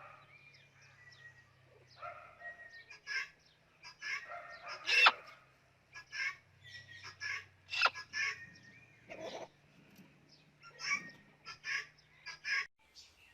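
Parrot calling in a series of short, irregular squawks, the loudest about five seconds in.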